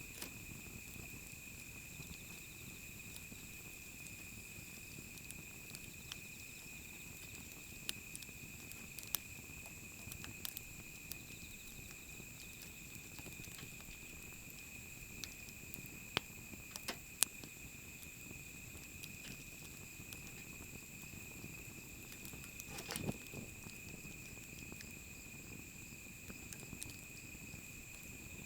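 Wood fire crackling, with scattered sharp pops and a short cluster of crackles about two-thirds of the way through, over a steady high insect trill.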